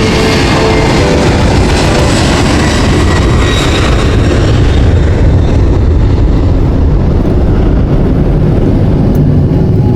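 Airbus A330 airliner's loud, steady rumble and rushing noise during landing. The high hiss thins out about halfway through while the deep rumble goes on.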